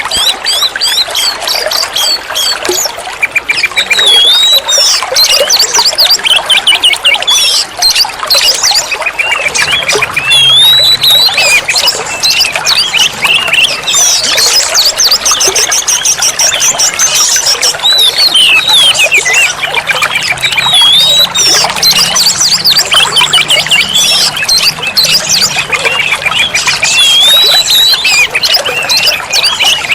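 Oriental magpie-robin (kacer) singing loudly and without a break: a varied string of clear whistles, fast rising and falling notes and rapid trills.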